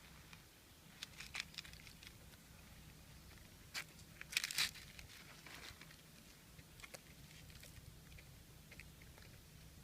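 Short crackling and crunching clicks, a quick cluster about a second in and a louder one around four seconds in, with a few faint ticks afterwards, over a steady low hum.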